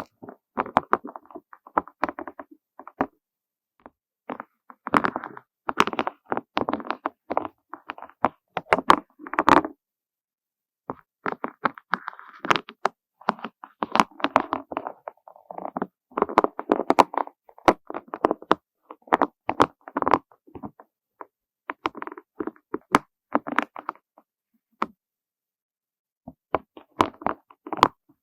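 Small butterfly- and flower-shaped beads clicking and clattering as they are handled, in bursts of many quick light clicks separated by short pauses.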